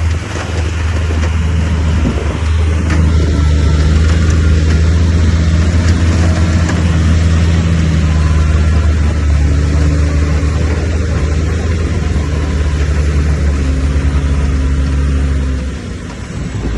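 Heavy earthmoving machine's diesel engine running steadily under load, a strong low drone that eases off near the end.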